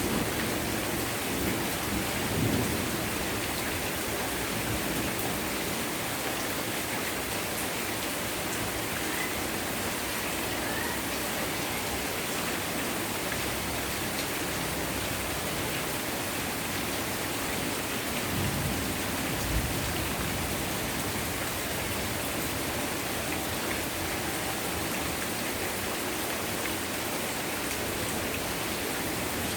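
Heavy rain falling steadily, with low rumbles of thunder a couple of seconds in and again about two-thirds of the way through.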